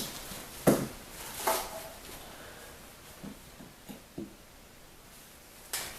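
Scattered knocks and clinks of small metal parts and tools being handled and set down, about half a dozen separate hits with no drill running yet.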